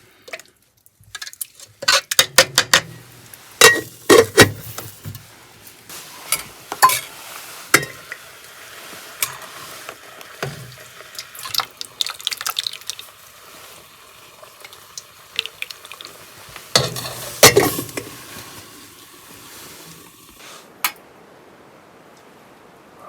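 Cookware and utensils being handled: an irregular string of sharp clinks and knocks over a faint steady hiss.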